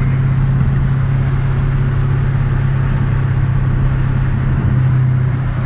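Dodge Challenger's engine running at a steady speed while driving, heard from inside the cabin as an even low drone.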